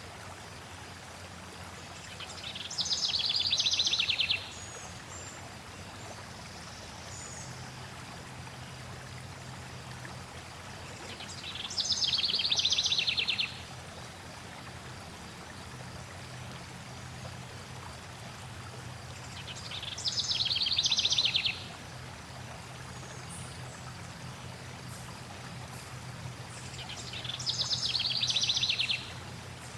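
Flowing stream water, a steady rushing, with a songbird singing a short, rapid trilled phrase four times, about every eight seconds. Each phrase swells louder and then stops abruptly, and the phrases are the loudest sounds.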